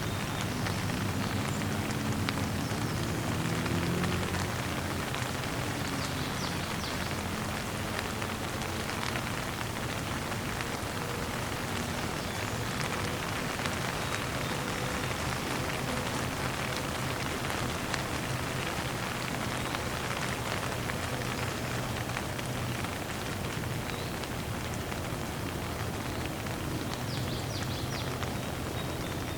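Steady rain falling and pattering on surfaces, an even hiss of many drops, with a faint low hum underneath.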